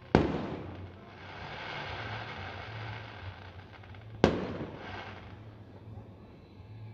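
Fireworks: two sharp aerial bursts about four seconds apart, each trailing off in a decaying echo, with a softer hiss between them.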